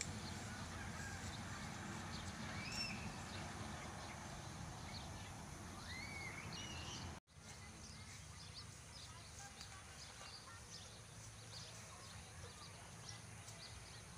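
Birds chirping over a steady outdoor background: a few gliding calls in the first half, then a sudden break about halfway, after which many short, high chirps continue over a quieter background.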